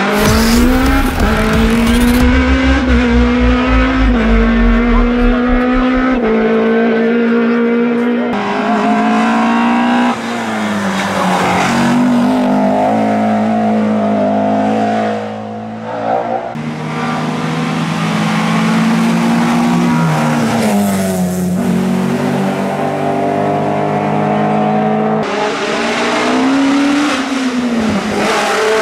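Alfa Romeo 33 race cars' 1.5-litre flat-four boxer engines revving hard, the pitch climbing through each gear and dipping at every shift and lift for the corners. The sound switches abruptly to another car three times.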